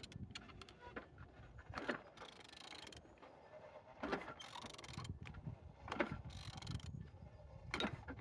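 Opel A20DTH 2.0 CDTI diesel engine being turned over by hand with a wrench, its internals and ratchet clicking and creaking in strokes about every two seconds. It turns freely, a sign the engine is not seized.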